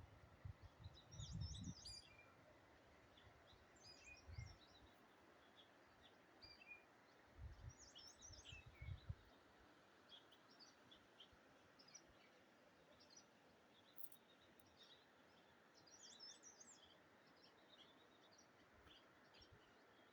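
Faint birdsong: scattered short, high chirps and twitters from several small birds over a quiet background hiss. A few brief low rumbles, like wind buffeting the microphone, come in the first nine seconds.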